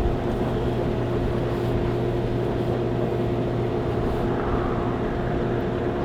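Steady mechanical hum, holding two clear tones over a low noisy rush.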